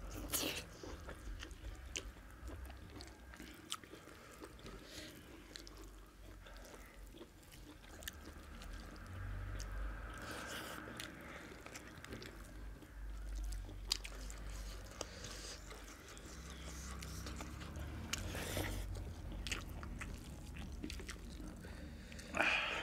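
Close-up chewing and eating of mutton curry and rice, with scattered small mouth clicks and wet smacks.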